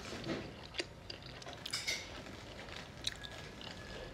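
A person chewing momo dumplings, with soft wet mouth sounds and scattered small clicks.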